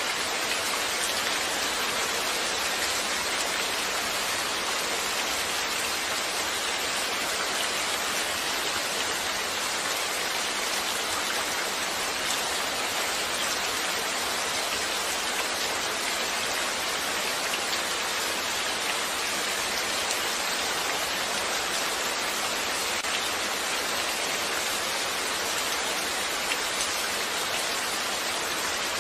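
Steady rain falling, a dense, even hiss of drops on a surface with no let-up.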